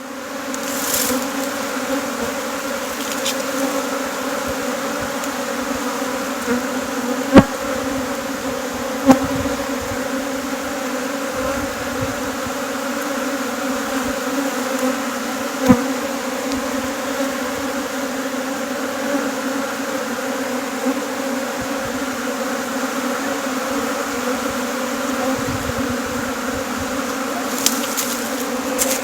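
Many honeybees buzzing in a dense, steady hum. Three short, sharp taps stand out above the hum.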